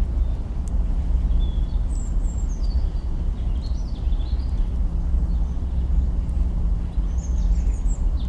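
Campfire burning with faint crackles of branches over a steady low rumble. A small bird chirps in short runs of high notes about two seconds in, again around four seconds, and near the end.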